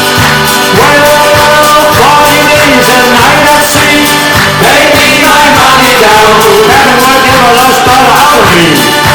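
Live folk band music: an upbeat tune played over a steady beat, with a bending melody line that may be a voice.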